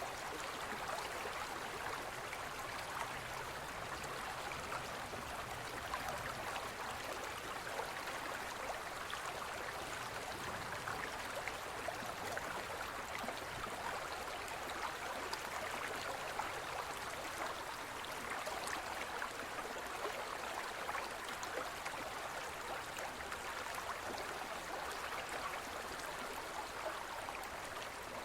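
Forest stream flowing steadily over stones, an even rushing splash with fine trickling and gurgling.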